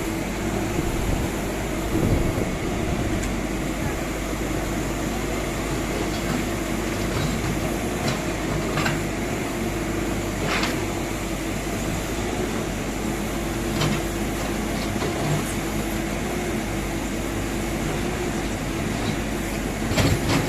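Steady engine or machinery hum with a constant low drone, and a few sharp clinks or knocks scattered through it.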